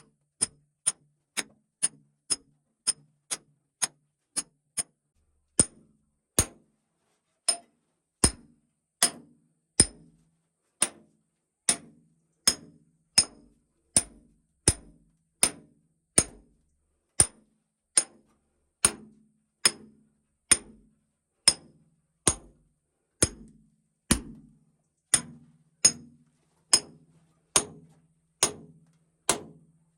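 Hammer blows on steel, a steady series of sharp single strikes, each with a short metallic ring. About two blows a second at first, slowing to a little over one a second after about five seconds.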